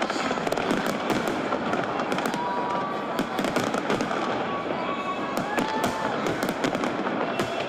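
Fireworks crackling and popping in rapid, continuous succession.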